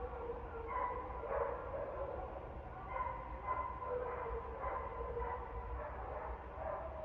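Dogs barking repeatedly, short pitched barks about one or two a second, over a steady low rumble.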